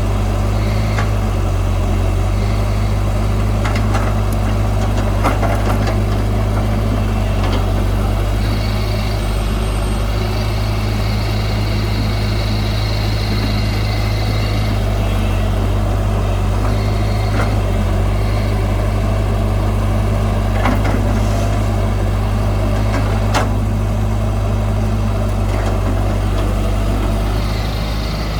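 Heavy diesel engine of earthmoving machinery running steadily, with a few sharp metallic clanks and a high squeal lasting several seconds near the middle.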